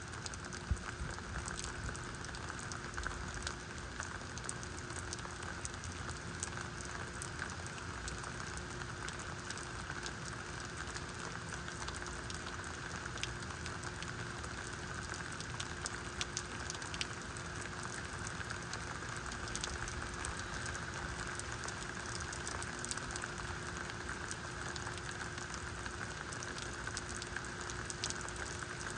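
Steady rain falling, with many individual drops clicking sharply over the continuous wash. A faint steady hum sits underneath.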